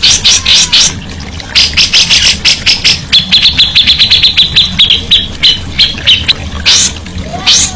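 Songbird singing in phrases of rapid, sharp repeated notes, with a fast high trill in the middle of the song.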